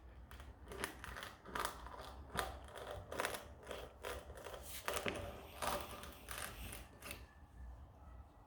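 Spiral reamer tool from a tyre puncture repair kit being worked in and out of the puncture hole in a tubeless car tyre: a run of faint short scrapes, about two a second, dying away near the end.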